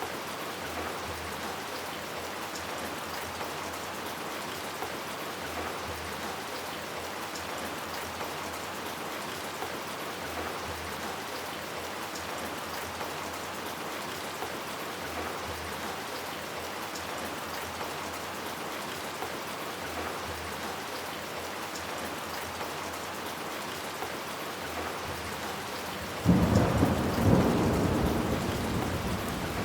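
Steady rain falling, an even hiss. Near the end a sudden loud peal of thunder breaks in and rumbles on, slowly fading.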